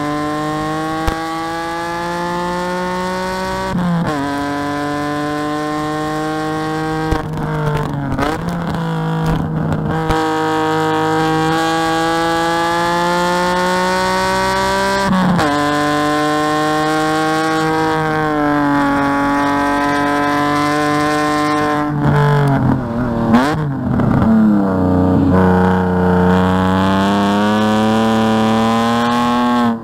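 Race-prepared BMW E46 3 Series engine heard from inside the cabin under hard acceleration, revs climbing through the gears with quick upshifts about four, eight and fifteen seconds in. Around two-thirds of the way through it brakes and downshifts with several sharp throttle blips, then pulls hard again.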